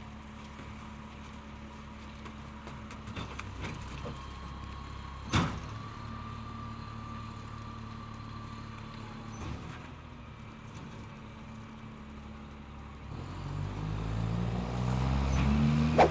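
Truck engine running steadily at idle, with one sharp knock about five seconds in. Near the end it revs up, rising in pitch and getting louder.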